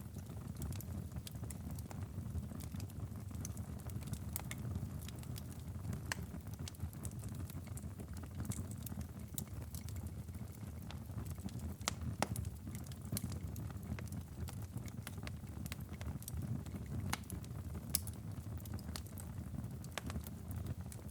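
Wood fire in a fireplace crackling, with irregular sharp pops over a steady low rumble; a couple of louder pops stand out, one about midway and one near the end.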